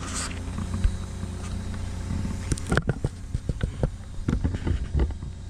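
Cat 314E excavator's diesel engine running steadily, with a string of irregular knocks and clatter from about two and a half to five seconds in.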